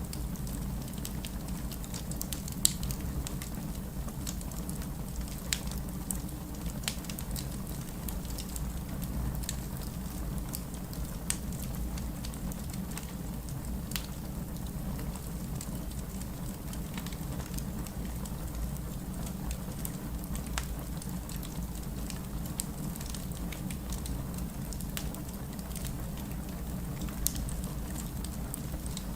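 Wood fire crackling with scattered sharp pops over a steady rumbling hiss of rain.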